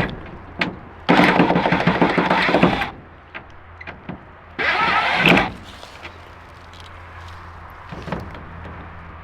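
Truck teardown work noise: two harsh, noisy bursts, the first about two seconds long and the second under a second, over a steady low hum, with scattered knocks between.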